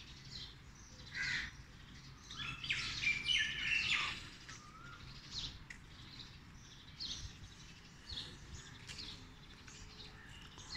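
Birds chirping and calling in the trees: many short, high calls at irregular intervals, busiest a couple of seconds in.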